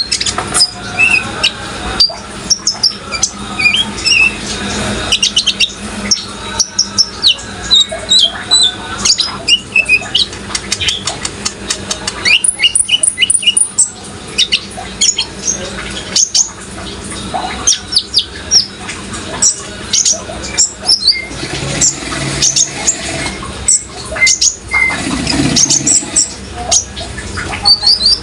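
Kolibri ninja (a sunbird) singing: a rapid, continuous run of short, high chirps and twittering trills, over a steady wash of running water.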